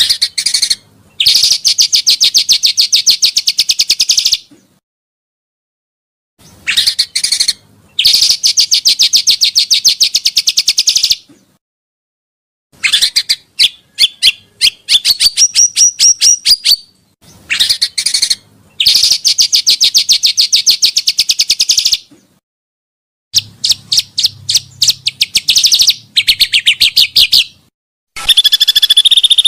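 Bird-call lure recording of the bird sold as the pancawarna, loud and close: phrases of fast, buzzy chattering trills a few seconds long, separated by short silences. Near the end a different, steady high trilling begins.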